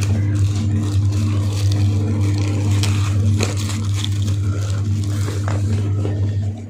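A steady low electrical hum with crackling, rustling handling noise over it.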